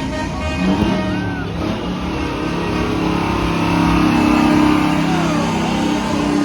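Big trucks rolling past with engines running, and a long held low horn note in the middle.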